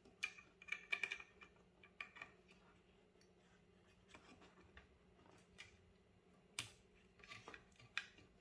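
Scattered small clicks and light metallic taps from parts being handled and plugged together inside a desktop PC case, in short clusters with quiet gaps between.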